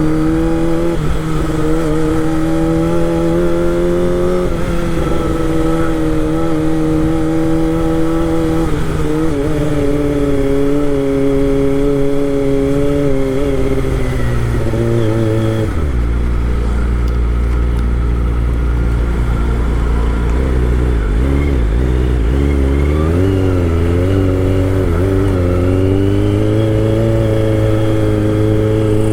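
Kawasaki Ninja ZX25R's inline four-cylinder engine running under way, its revs rising and falling gently with the throttle. About halfway through, the revs drop to a lower, deeper note, then climb again near the end.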